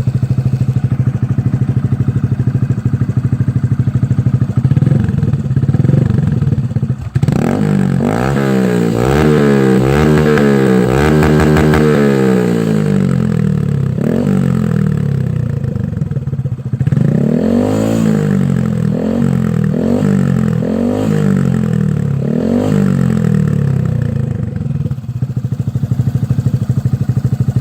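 2014 Honda Grom's 125 cc single-cylinder four-stroke engine through an M4 full exhaust with the baffle in, idling and then revved in quick repeated blips. The blips come in two runs, from about seven seconds in and again from about seventeen seconds in, and it drops back to idle between and after them.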